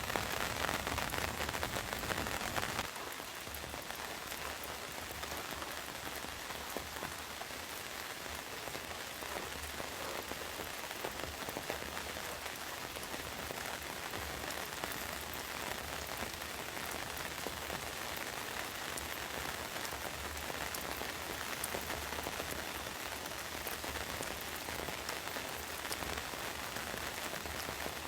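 Steady rain falling on a surface, louder for about the first three seconds, then dropping suddenly to a lower, even level.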